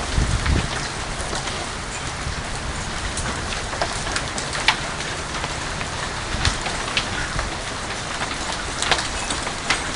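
A steady downpour with scattered sharp hits of hailstones striking hard surfaces.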